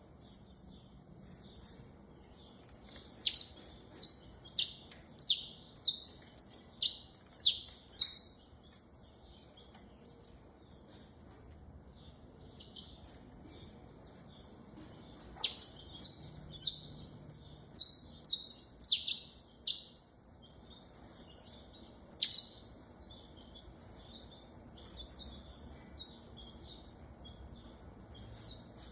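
Saffron finch singing: rapid series of high, quick downslurred chirps, delivered in phrases of a few seconds separated by short pauses.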